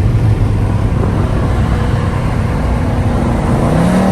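Car engine running over loud road and tyre noise, its pitch rising about three and a half seconds in as the car accelerates, then holding steady.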